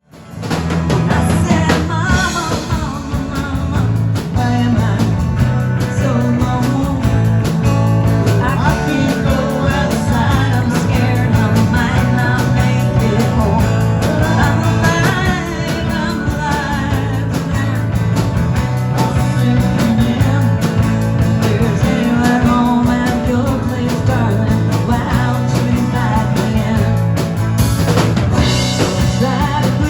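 Rock band playing live, with a lead singer over drums, bass and guitar.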